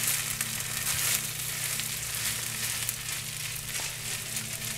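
Chicken fried rice sizzling steadily in a hot pan on the stove, with a few faint clicks.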